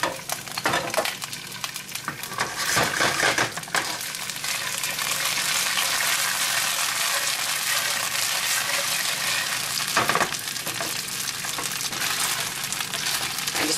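Fresh green beans, still wet from rinsing, sizzling and crackling in hot olive oil in a sauté pan, with the leftover rinse water spattering. A few brief knocks come as the beans are moved.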